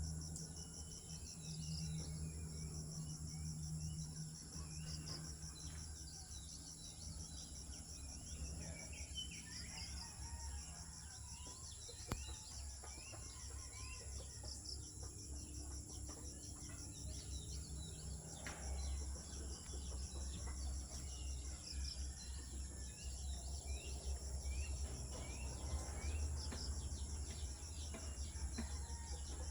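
A steady, high-pitched chorus of insects with a fast, even pulsing trill, crickets or cicadas, with many short bird chirps scattered through it. A low rumble runs underneath, and there is a single click about twelve seconds in.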